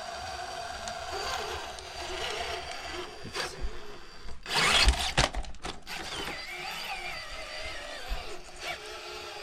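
RC crawler's electric motor and geared drivetrain whining steadily as it climbs an incline board, with a louder burst of noise about halfway through.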